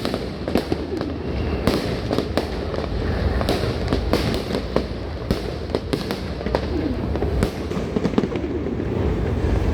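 Aerial fireworks going off: a dense, irregular run of sharp bangs and crackling pops, several a second, over a continuous low rumble of booms.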